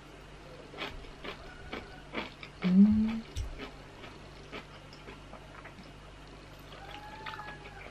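Close chewing and soft wet mouth clicks from someone eating. About three seconds in there is a short hummed "mm", the loudest sound. Near the end a cat gives a faint drawn-out meow.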